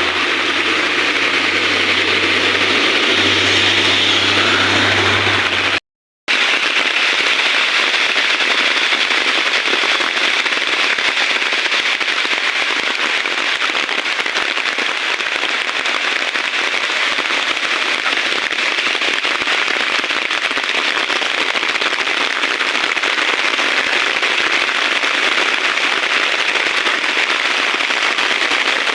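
Heavy rain falling steadily, a dense even hiss with a crackling texture. A low hum sits under it for the first six seconds, and the sound cuts out completely for a moment about six seconds in.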